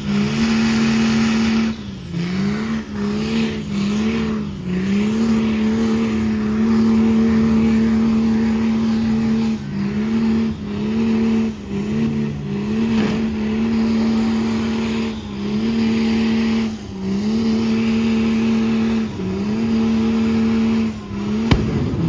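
Diesel pickup truck doing a burnout: the engine is held at high revs, the revs dipping briefly and climbing back again and again, over a steady hiss of spinning tyres. A single sharp crack comes near the end.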